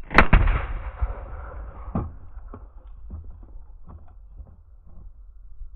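A single loud rifle shot, a .338 Lapua Magnum going off, its echo ringing out and dying away over about two seconds, followed by a few light clicks and knocks.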